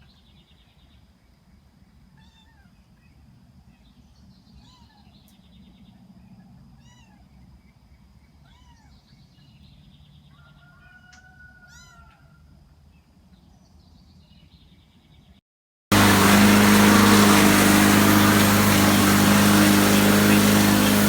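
Faint, repeated short rising-and-falling kitten meows, one every second or two. After a brief gap, a loud, steady noise with a low hum takes over for the last five seconds.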